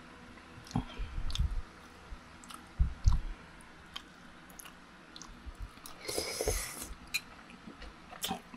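Close-up chewing of chicken and rice in soup, with soft low mouth thumps in the first few seconds, a brief hissing rush about six seconds in, and a sharp click near the end.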